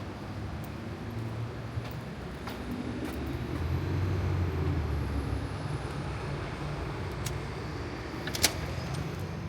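A motor vehicle passing on the street, its low engine rumble swelling to a peak about four seconds in and then fading. A single sharp click near the end.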